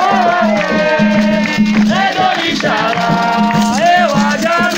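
Singing of an Afro-Brazilian ritual chant over a rattle shaking and drums beating a fast, steady rhythm.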